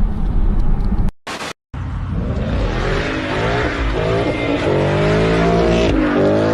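Car driving noise: a steady low rumble that drops out briefly about a second in, then returns with a wavering pitched whine over it for the rest of the stretch.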